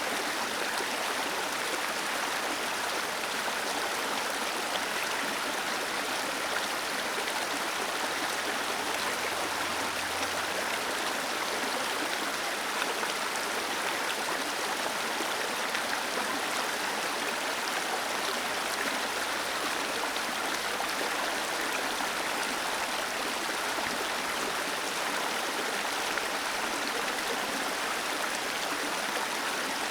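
A small waterfall splashing and rushing in a steady, even hiss.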